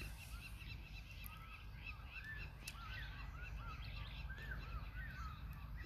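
Faint bird calls: many short, arching chirps overlapping one another, over a low steady rumble.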